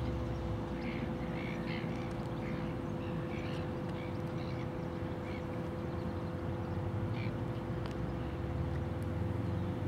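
Birds calling in short squawks, several in the first half and one more a little past the middle, over a steady hum and a low rumble.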